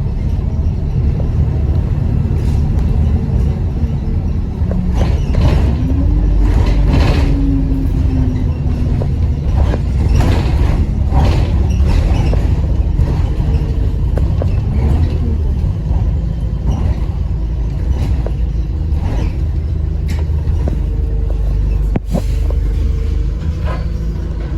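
Diesel bus engine running heavily under way, heard on board, with a deep rumble and a whine that rises and falls twice as the bus pulls away and changes gear. The engine noise is typical of the bus's bad turbo leak and engine thrash.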